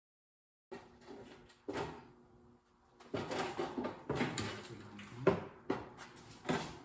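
Irregular knocking and clattering of metal parts being handled on a lawn tractor's grill, with several sharp knocks in the second half.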